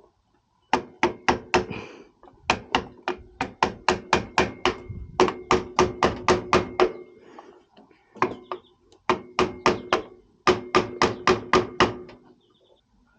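Hammer blows on metal in quick runs of several strikes, about three to four a second with short pauses between runs, each strike leaving a brief ringing note: a stuck spin-on oil filter on a Toro zero-turn mower being hammered with no filter wrench to hand.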